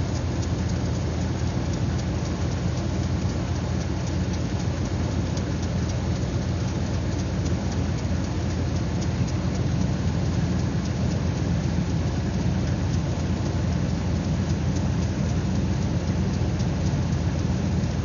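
Dodge pickup's engine idling steadily, with a fine, fast ticking over it that the owner takes for the lifters clicking.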